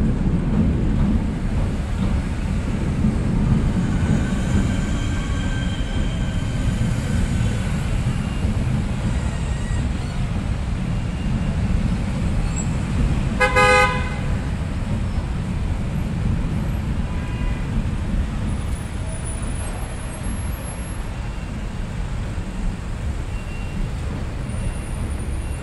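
Electric passenger train running across a steel truss railway bridge: a steady low rumble, with faint high squealing a few seconds in. About halfway through, one short horn toot about half a second long.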